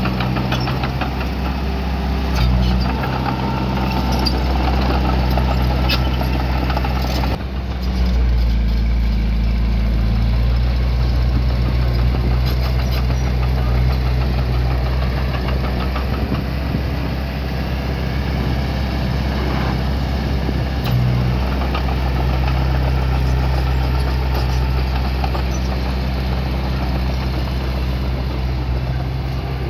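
Diesel engine of a small bulldozer running steadily, its note shifting a few times, most clearly about seven seconds in.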